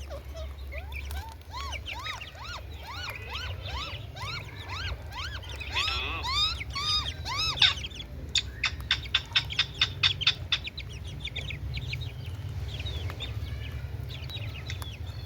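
Parrot calling: a string of short rising-and-falling chirps, then a quick run of sharp, clicky notes about five a second, over a steady low hum.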